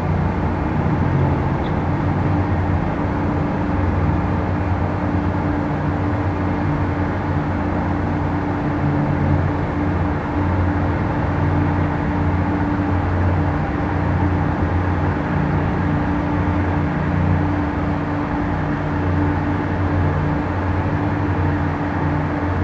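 Steady, loud mechanical drone with a constant low hum and an even steady tone above it, like an engine or machinery running without change.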